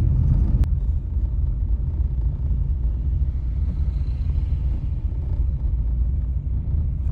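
Car on the move: a steady low rumble of engine and road noise, with a single sharp click shortly after the start.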